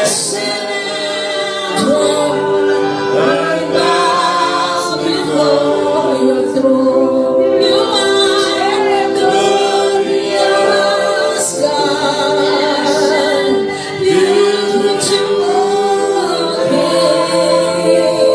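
Congregation singing worship together, many voices holding long wavering notes, with sparse percussive accents.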